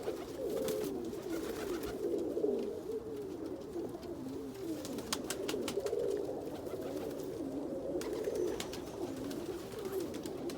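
Several domestic pigeons cooing at once, their wavering low calls overlapping without a break, with scattered light clicks among them.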